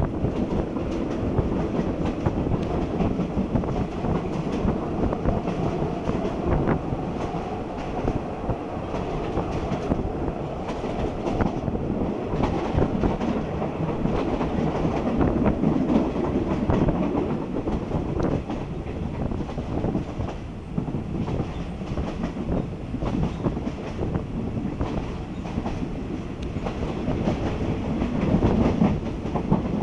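Passenger train running on the line up a hill grade, heard from inside a carriage with the window open: a steady rumble of wheels and carriage with frequent clicks of the wheels over the rail joints.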